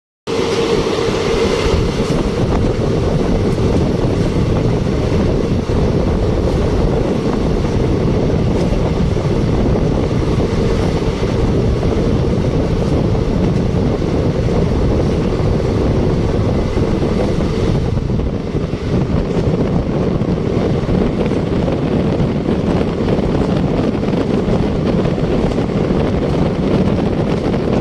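Loud, steady running noise of an ICF passenger train coach at speed, heard from its open doorway: wheels rolling on the track, with wind rushing past the open door and onto the microphone.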